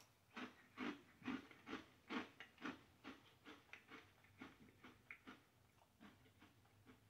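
Faint crunching of a person chewing a mouthful of Cheerios Oat Crunch Cinnamon cereal in milk, about two chews a second, louder over the first three seconds and then softer.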